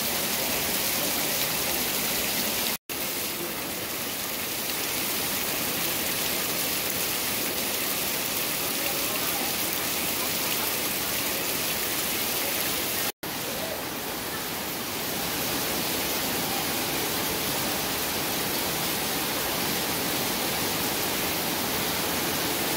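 Heavy rain pouring steadily onto wet ground and puddles, an even hiss that cuts out for an instant twice.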